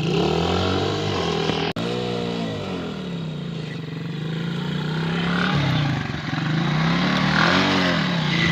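Polaris ATV engine running and revving, its pitch rising and falling several times, with a sharp click a little under two seconds in.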